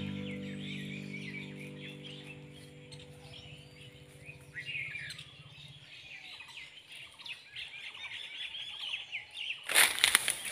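Small birds chirping and twittering steadily throughout. Close to the end a sudden, loud rushing noise cuts in for about half a second.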